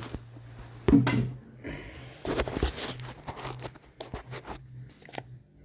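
Handling noises: a knock about a second in, then a couple of seconds of crinkling and rattling and a few sharp clicks, over a low steady hum.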